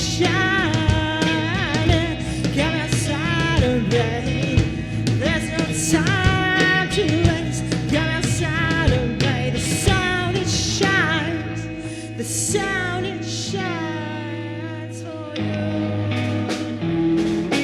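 Small rock band playing live through the mixing desk: drum kit, guitar and bass, with a wavering lead line over them. The band thins out and gets a little quieter about twelve seconds in, then comes back in fuller a few seconds later.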